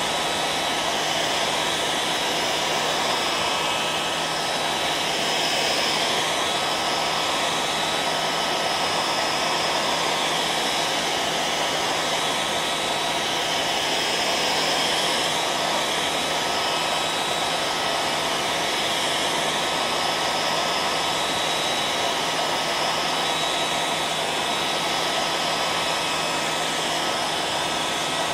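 Hair dryer running steadily: an even rush of blown air with a faint steady whine and a low hum, unchanging throughout.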